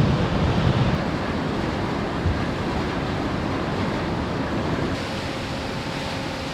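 Steady rushing of wind and sea, with wind buffeting the microphone, gustier in the first second and easing a little after; a faint steady hum comes in near the end.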